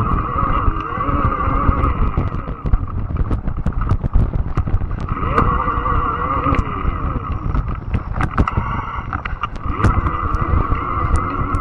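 Fat-tire electric bike riding along an overgrown trail: a steady hum from the motor and tyres, which fades twice and comes back, over a heavy low rumble. Many sharp clicks and snaps are scattered throughout, fitting brush and twigs hitting the bike.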